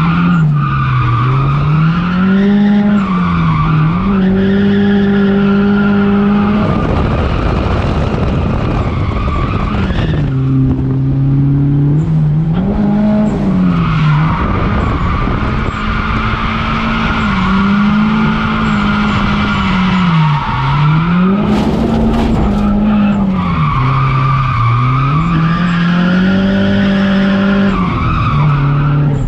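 Nissan 240SX's turbocharged SR20DET four-cylinder engine heard from inside the cabin, revs swinging up and down again and again while drifting, with tyres squealing through long stretches. Two spells of rushing noise cut across it, about a quarter of the way in and again about three quarters of the way through.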